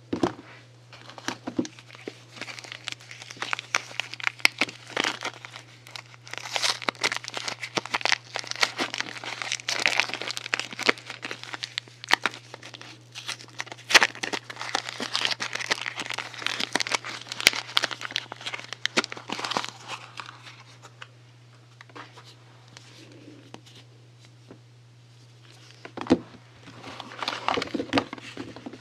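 Soap packaging being unwrapped by hand: crinkling wrapping with many small sharp crackles. It goes quiet for a few seconds past the middle, then the crinkling starts again near the end.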